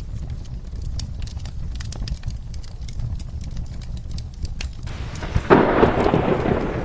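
Fireplace crackling with sharp pops over a steady low rumble. About five seconds in, a loud clap of thunder breaks, with a rush of rain.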